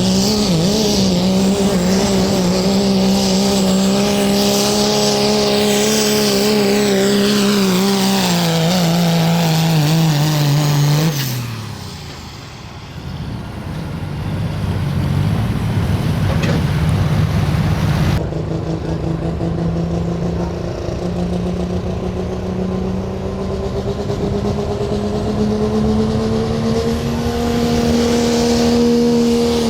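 Turbocharged diesel pickup engine running at high rpm under heavy load while pulling a sled, holding a steady pitch. About eleven seconds in, the revs fall away and it goes quieter. After an abrupt change about 18 seconds in, a high-rpm run is heard again, creeping slightly higher near the end.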